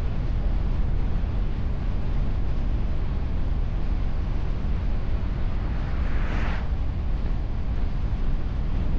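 Steady rush of wind and road noise from a car driving at speed, picked up by a bonnet-mounted camera's microphone under a windshield, strongest in the low rumble. About six seconds in a brief hiss swells and fades.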